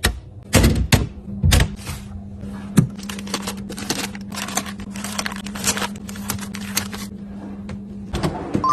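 Quick clicks, taps and knocks of food packaging and containers being handled and set down, louder in the first couple of seconds, over a steady low hum that starts about a second in and stops near the end.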